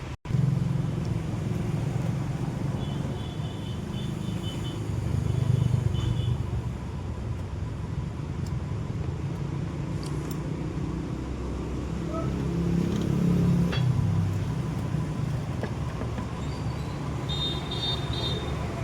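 Maruti Alto 800's three-cylinder petrol engine running steadily at idle, swelling slightly a couple of times.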